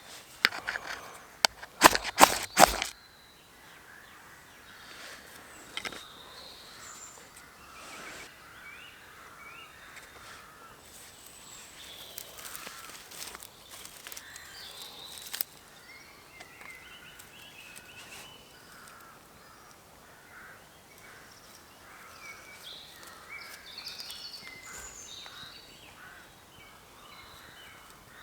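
A quick run of sharp scrapes as a knife spine is struck down a ferrocerium fire steel to throw sparks onto fatwood shavings, in the first three seconds. After that, birds calling in woodland, with a few faint clicks.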